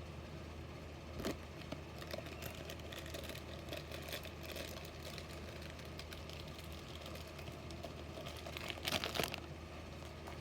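Faint handling noises: light clicks and rustles of die-cast toy cars being put down and picked up, with a sharper click about a second in and a short cluster of clicks near the end, over a low steady hum.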